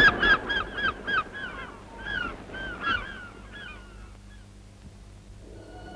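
Birds calling in a rapid series of repeated calls, about five a second at first, then slowing and fading away after about four seconds. A steady held tone comes in near the end.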